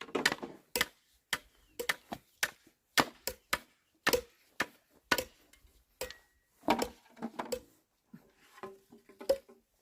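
Repeated chopping blows on wood, roughly two sharp strikes a second at an uneven pace, getting fainter near the end.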